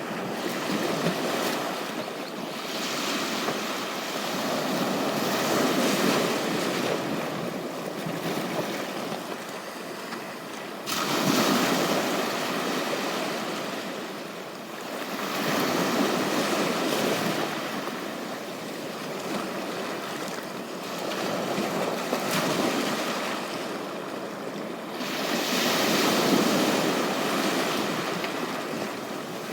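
Sea waves breaking and washing up on a beach, swelling and fading about every five seconds, with one wave breaking sharply about eleven seconds in.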